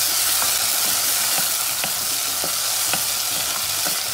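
Sofrito of onions, peppers, garlic and fresh tomatoes sizzling in oil in a small nonstick pot, stirred with a wooden spoon that ticks against the pot about twice a second.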